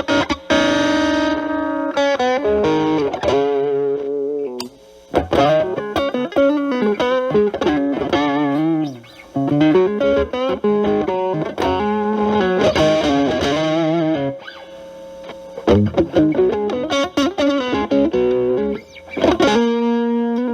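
Stratocaster with single-coil pickups played through a Boss DS-1 distortion pedal stacked with an Ibanez TS9 Tube Screamer as a gain booster, into a Marshall Valvestate amp. Distorted single-note lead lines with string bends and vibrato, broken by a few brief gaps between phrases.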